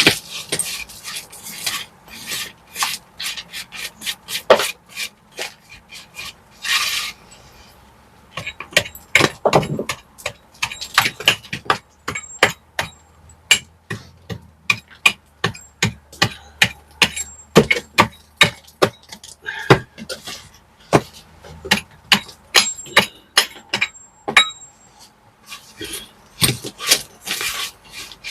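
Hand tools working on brick and mortar: many sharp taps, a few each second, with short stretches of scraping.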